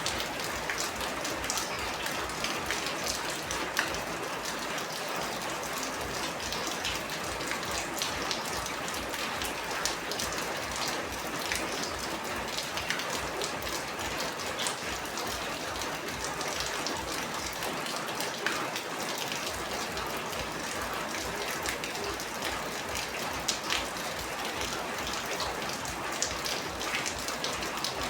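Steady rain falling, with many individual drops ticking and pattering on a hard surface.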